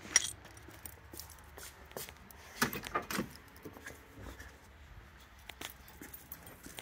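Scattered light clicks and knocks with a jingle of keys: a sharp knock just after the start and a cluster of knocks about two and a half to three seconds in. The V8 is not yet running.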